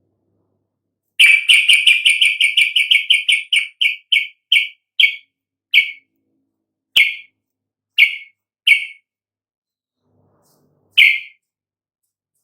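Yellow-vented bulbul (trucukan) calling: a fast run of sharp, identical chip notes, about eight a second, that slows down until the notes come singly about half a second to a second apart, with one last note near the end.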